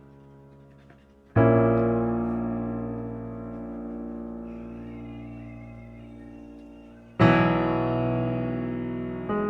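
Slow solo piano music: sustained chords, one struck about a second in and another near the end, each ringing and slowly fading.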